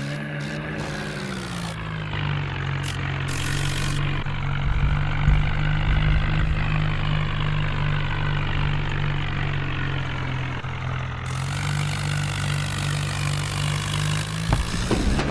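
Swaraj tractor's diesel engine running at a steady, moderate speed, with a low, even drone. Its note dips slightly about two seconds in and picks up a little around eleven seconds.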